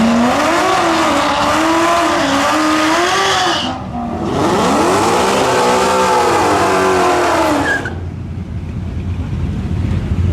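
Performance car engine at full throttle, its pitch climbing for about three and a half seconds. After a brief break near four seconds, consistent with a gear shift, the note rises and falls again until about eight seconds, then drops to a lower rumble.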